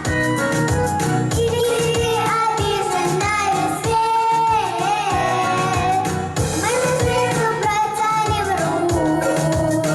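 Children's vocal ensemble singing a pop song with instrumental accompaniment and a steady beat.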